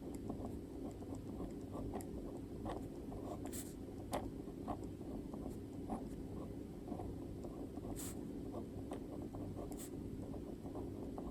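Pen writing on paper: a steady scratching of strokes with small taps, and three brief sharper swishes.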